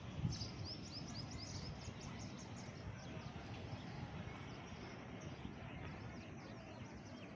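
Small birds chirping: a quick run of short, high chirps for the first few seconds, then fainter scattered chirps, over a steady background hiss of outdoor ambient noise.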